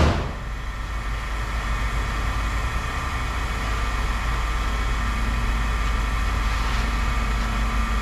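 A motor engine runs steadily at idle, a low, even drone with a constant hum in it; a further low tone joins about five seconds in.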